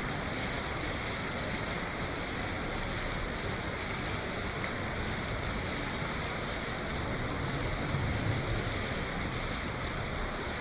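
Rain falling steadily, an even hiss with a slight low swell about eight seconds in.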